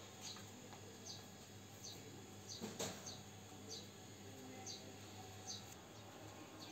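A small bird chirping, short high chirps repeated about once a second over faint steady background noise, with one sharp click just under three seconds in.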